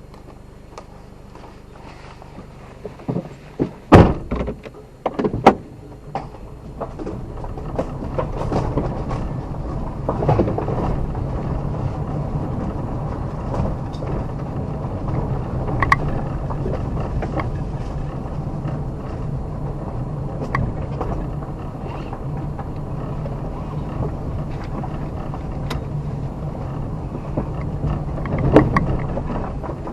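A few loud thunks, like a vehicle door shutting, about four to five seconds in, then a vehicle engine and road noise running steadily, with scattered knocks and rattles.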